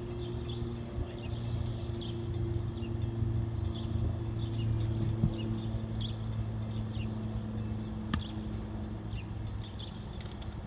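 Small birds chirping over and over in short, quick notes above a steady low hum, with one sharp click about eight seconds in.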